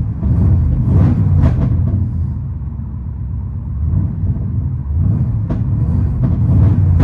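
Ford 460 big-block V8 with headers and Flowmaster Outlaw mufflers, heard from inside the truck's cab as a deep exhaust rumble. It swells up twice, once near the start and again in the second half, with a quieter stretch of running between.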